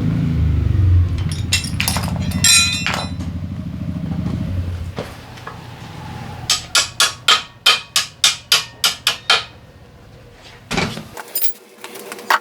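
Sharp metal tapping during an engine teardown: a run of about a dozen even strikes, roughly four a second, starting about six seconds in. Before it, a low rumble fades out at about five seconds, with a few scattered clicks.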